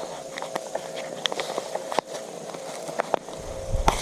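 A faint steady mechanical hum, with scattered sharp clicks and ticks over it; a low rumble comes in near the end.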